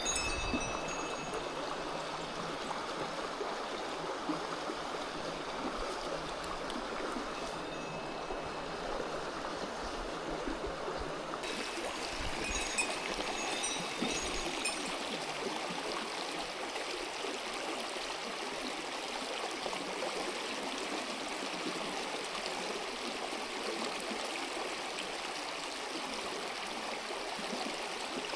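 Mountain stream rushing steadily over rocks, a constant watery hiss that turns a little brighter about a third of the way through.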